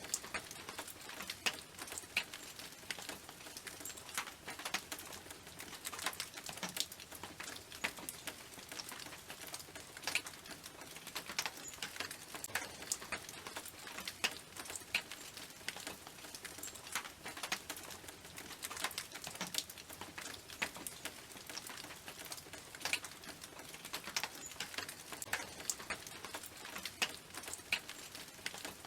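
Raindrops pattering on a tin roof: a dense, irregular scatter of sharp metallic ticks over a steady hiss of rain.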